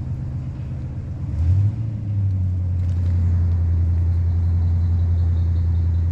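Four-cylinder engine of a 2003 Dodge Neon running: a low hum that picks up and grows louder about a second and a half in, then holds steady.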